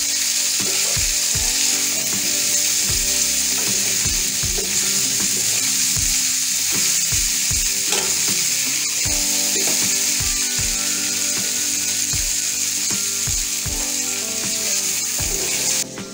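Chopped okra frying in hot oil in a small pan: a steady loud sizzle, with the spoon knocking and scraping against the pan as the okra is stirred. The sizzle cuts off suddenly near the end.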